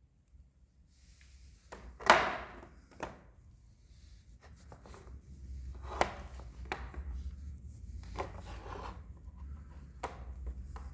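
Things being handled and set down: a sharp knock about two seconds in, more knocks near six and ten seconds, and rubbing or rustling in between, over a low hum that comes up about four seconds in.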